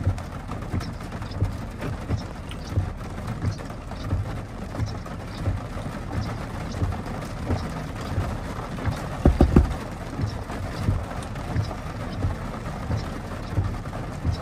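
Rain drumming on the roof and windows of an SUV, heard from inside the closed cabin as a patter of dull thuds, with a few heavier thumps about nine seconds in.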